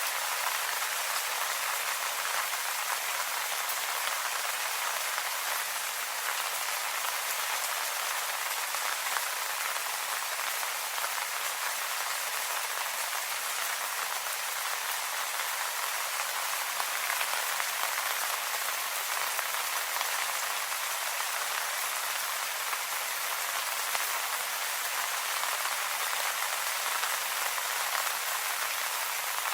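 Steady rain falling on leaves: an even, unbroken hiss of many small drops, with no thunder or single loud impacts.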